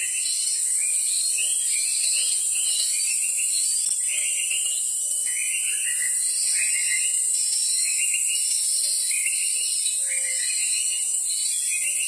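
Small birds chirping in a run of short notes that drop in pitch, about two a second, over a steady high-pitched buzz.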